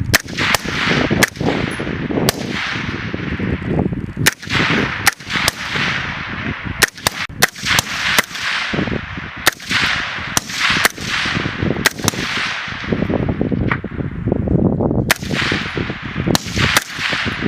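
Small-arms gunfire from several shooters on a range: many sharp shots at uneven intervals, sometimes two close together, each followed by a long echo.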